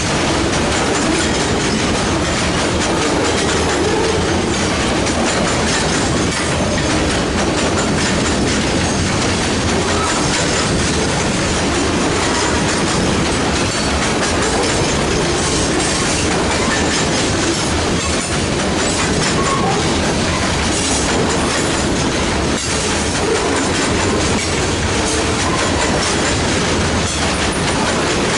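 Freight train cars rolling past at a steady speed, the wheels clicking over the rail joints, with a few faint, brief wheel squeals.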